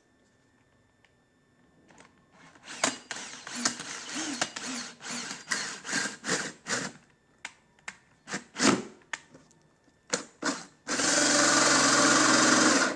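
Power drill cutting a large hole through a motorcycle saddlebag. From about two seconds in it comes in short, uneven bursts, then runs steadily for about two seconds near the end.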